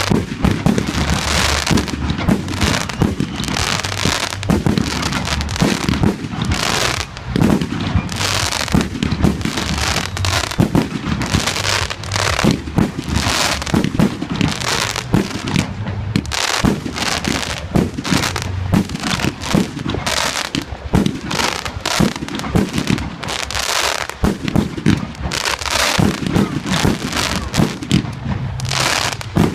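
Fireworks display going off in a rapid, unbroken barrage of bangs and crackles, many bursts a second.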